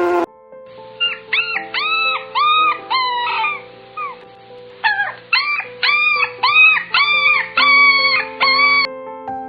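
Puppy giving a string of short, high-pitched whining yelps, each call rising and then falling in pitch. They come in two bouts, the second starting about five seconds in, over steady background music.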